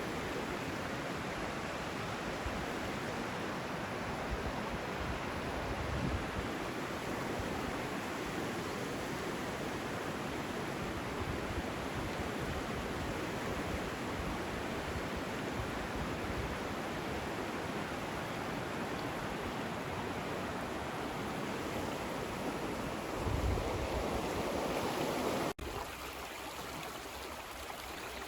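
Creek water flowing in a steady, even rush. Near the end it breaks off for an instant and carries on a little quieter.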